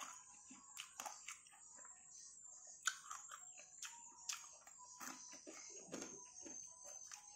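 Close-up eating by hand: wet chewing and mouth clicks, with fingers scraping and picking food from a stone mortar. One sharper click comes about three seconds in, over a faint steady high whine.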